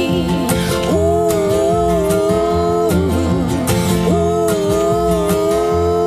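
Live acoustic band music with no words sung: strummed acoustic guitar under a melody of long held notes that waver slightly.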